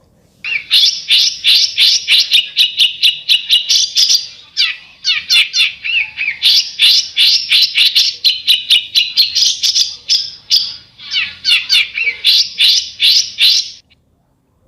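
A songbird's harsh 'besetan' call: a fast, sharp, rasping chatter of about three to four notes a second, going on with two brief breaks and cutting off suddenly near the end.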